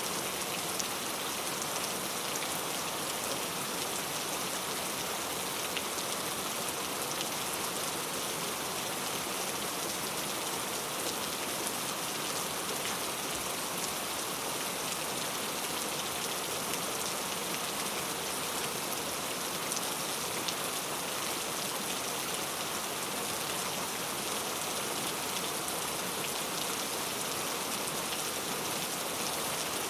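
Steady rain falling on a thatched roof of coconut palm leaves: an even, unbroken hiss with scattered sharp ticks of single drops.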